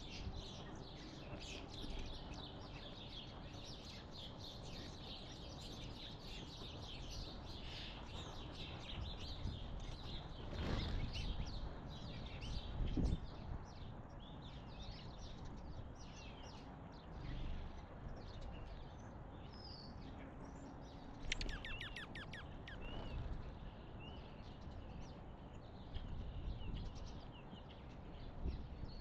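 Wild songbirds chirping and calling steadily, many short chirps overlapping, with a quick trill about three-quarters of the way through. Deep rumbles rise under the chirping around the middle.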